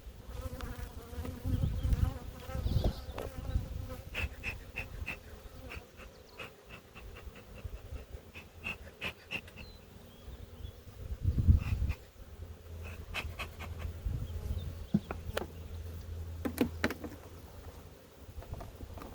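Honeybees buzzing around an open hive, with runs of quick sharp clicks and, about eleven seconds in, a loud low thump from handling.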